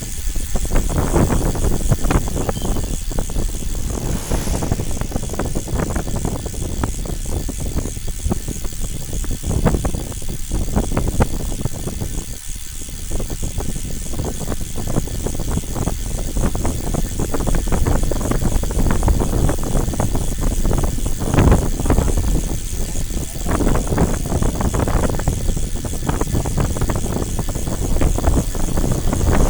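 A moving vehicle's road rumble and wind noise, with frequent small rattles and bumps.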